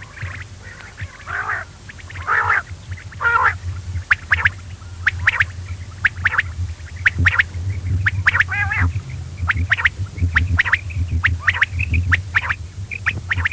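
Quail calling over and over: short, sharp repeated calls, with a few longer, wavering notes in the first few seconds, over a steady low hum.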